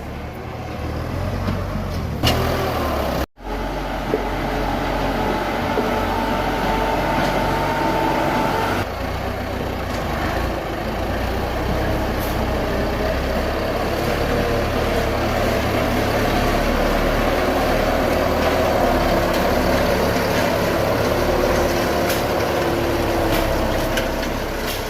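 Tractor's diesel engine running under load as it pushes and levels soil, its pitch shifting now and then. The sound drops out abruptly for a split second about three seconds in.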